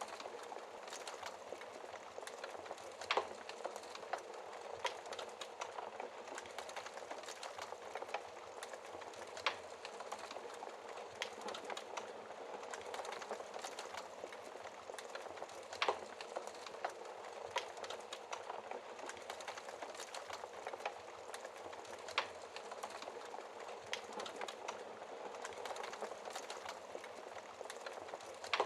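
Wood fire burning in a fireplace: a steady crackling hiss full of small pops, with a sharper, louder crack every several seconds.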